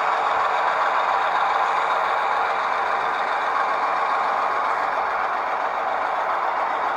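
Diesel locomotive engine running steadily, a recording of a real locomotive.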